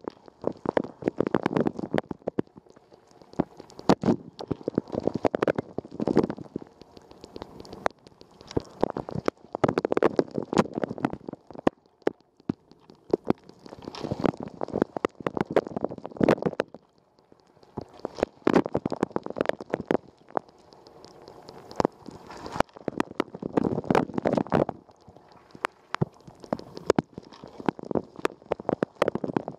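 Water spray inside a running Rosenlew dishwasher during the wash cycle: the rotating spray arm's jets sweep past and splash against the dishes and the camera in surges about every four seconds, with quieter dripping and sloshing between.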